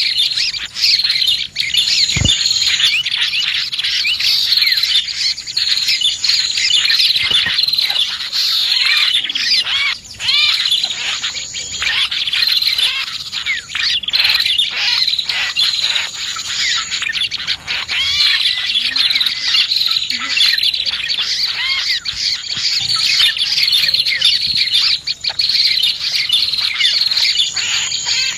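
Dense, unbroken chorus of small birds chirping and trilling over one another, a bird-lure recording of prinias (prenjak) mixed with other small songbirds. A thin, high note held for about a second comes back every few seconds over the chatter.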